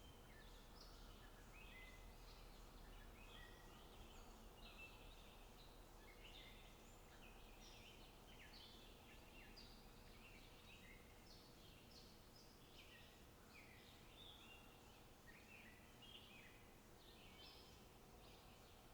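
Small birds singing: many short high chirps and twittering notes, overlapping and continuous, over a faint steady low background.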